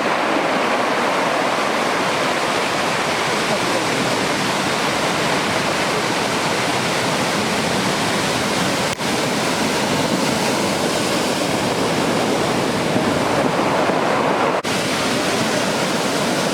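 Heavy typhoon swell breaking on a beach as close-out waves: a loud, steady wash of surf noise. The level drops sharply for an instant twice, about nine seconds in and near the end.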